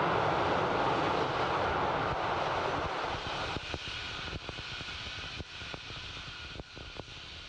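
Falcon 9 first-stage booster's Merlin engine firing on its landing burn, a steady rushing noise that fades away from about three seconds in as the booster touches down and shuts off. Scattered crackles and pops follow.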